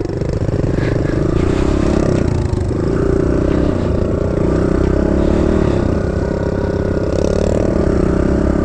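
Kawasaki KLX110 dirt bike's small single-cylinder four-stroke engine running at a steady, fairly constant throttle while riding, with some clatter.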